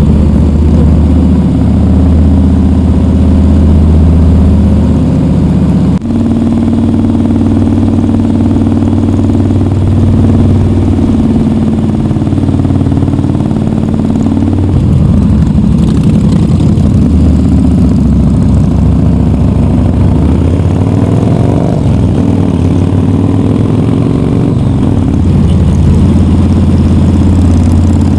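Big V-twin motorcycle engines with loud aftermarket exhausts running, the engine note rising and falling. The sound shifts abruptly about six seconds in.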